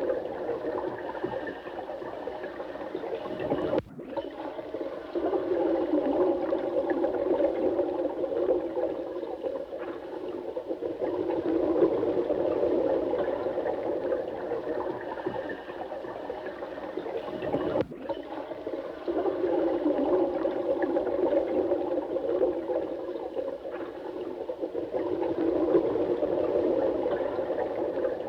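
Running water with a low, gurgling rush that swells and eases in slow waves. It drops out for an instant about four seconds in and again about eighteen seconds in.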